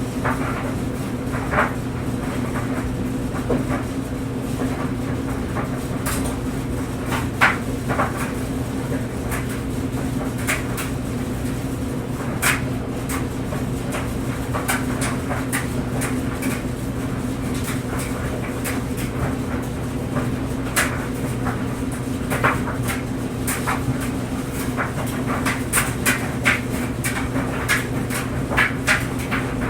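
Clothes dryer running with a steady motor hum, its tumbling load making irregular clicks and knocks against the drum, coming more often near the end.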